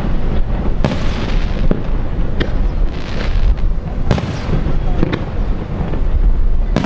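Fireworks display: aerial shells bursting in a run of sharp bangs, about six in seven seconds, some trailing off into a fading crackle.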